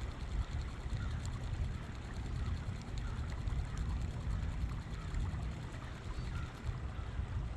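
River water trickling and flowing steadily along the bank, over an uneven low rumble.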